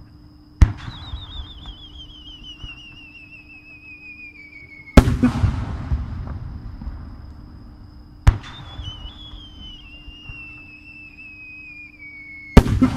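Two aerial firework shells, each fired from its mortar with a sharp crack, then carried up on a warbling whistle tail that falls in pitch for about four seconds, then bursting with a loud boom that rolls away over a couple of seconds. The second shell bursts near the end.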